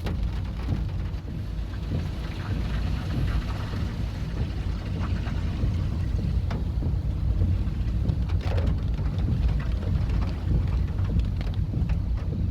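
Steady rush of swollen floodwater, with a deep low rumble under it.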